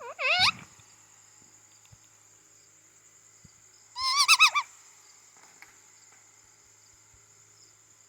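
Indian ringneck parrot giving two short calls about four seconds apart: a quick rising call at the start and a warbling call about four seconds in.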